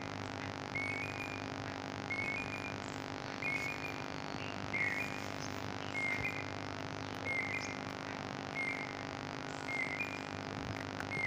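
A bird calling with a short high chirp, repeated about once a second, over a steady low hum.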